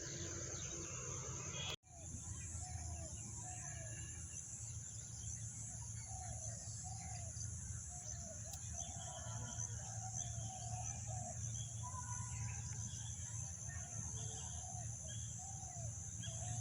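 Birds giving short, repeated calls over a steady high-pitched drone and a low steady hum, with the sound cutting out completely for a moment about two seconds in.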